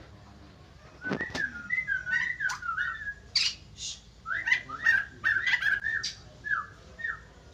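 White-crested laughingthrush singing a quick run of whistled notes that slide up and down, starting about a second in, mixed with short, sharp, higher-pitched chirps from birds nearby.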